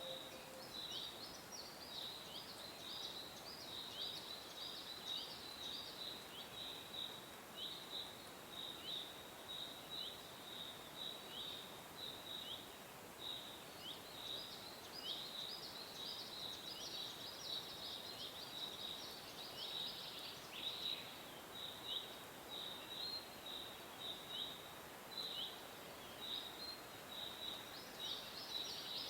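Small birds chirping continuously: short, high, downward-sliding notes, several a second and overlapping, over a steady background hiss.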